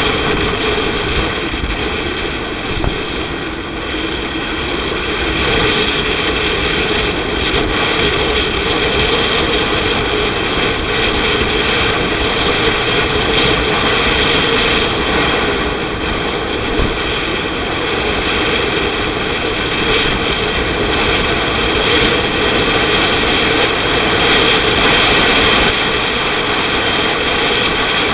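Motorcycle riding along the road: a steady, loud rush of wind over the rider's camera microphone with the engine running underneath.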